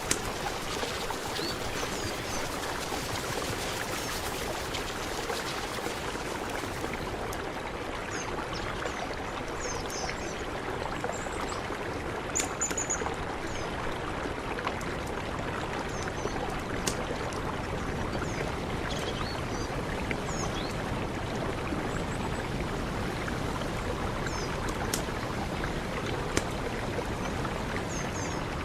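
Mountain river flowing in a steady rush of water, with a few short high chirps over it from about a third of the way in.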